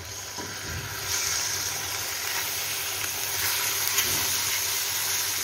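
Raw diced boneless chicken sizzling in hot oil in a stainless steel frying pan. The steady hiss swells about a second in as the pieces go in.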